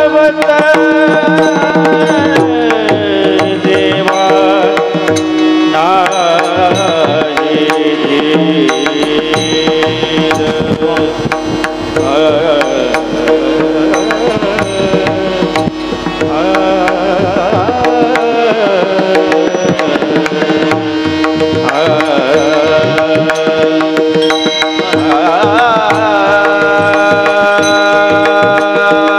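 Marathi kirtan music: a steady held drone, a voice singing wavering, ornamented melodic phrases, and hand-drum strokes keeping a running beat.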